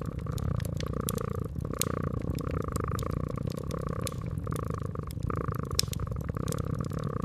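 A cat purring steadily, the purr swelling and easing in cycles of about a second, over a wood fire crackling with sharp scattered pops.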